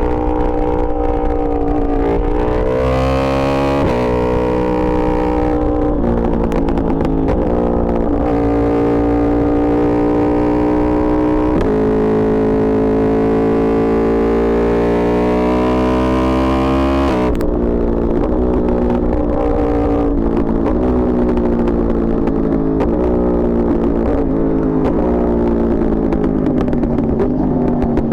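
Yamaha R1 sportbike's inline-four engine under way. Its pitch climbs and steps through several gear changes, drops sharply a little past halfway, then winds down steadily as the bike slows.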